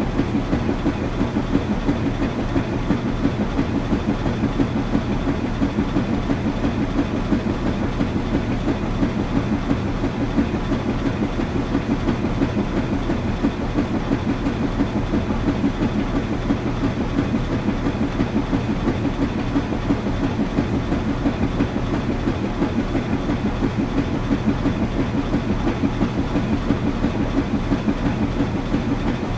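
Washing machine running: a steady rumble with a fast, even pulsing that does not change.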